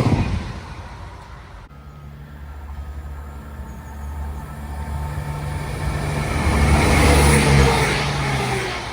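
Diesel train passing with its engine running, growing louder to a peak about seven seconds in and then fading. An abrupt edit about two seconds in cuts off the noise of an earlier train.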